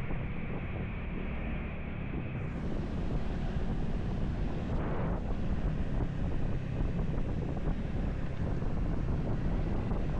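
Wind rushing over the microphone of a camera on a moving motorcycle, a steady low rumble of buffeting and road noise. About two and a half seconds in the sound turns brighter and a little louder.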